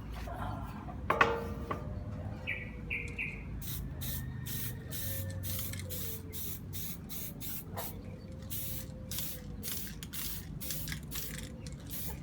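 Aerosol spray-paint can hissing in many short, quick bursts as a painted casing gets a final thin touch-up coat. A single sharp knock comes about a second in.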